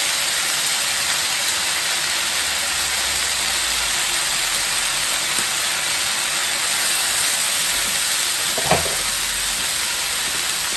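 Diced eggplant and chicken cartilage frying in oil in a wok over high heat: a steady sizzling hiss, with one brief knock near the end.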